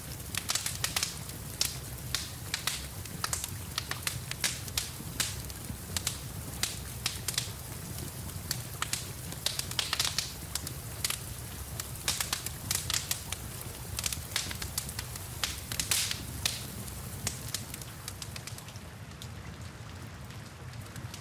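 Wood fire crackling in a fireplace, with frequent irregular pops and snaps over a steady low rumble, and rain in the background.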